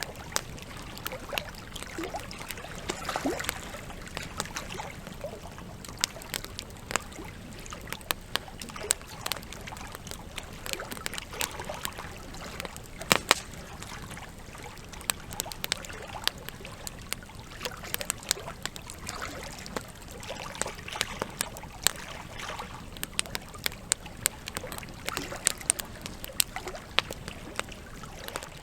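Campfire burning, its logs crackling and popping irregularly over a steady hiss, with a louder pop about 13 seconds in.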